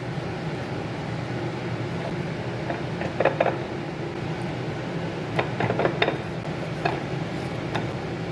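Kitchen clatter: a few short clinks and knocks of dishes and utensils being handled, in small clusters over a steady low hum.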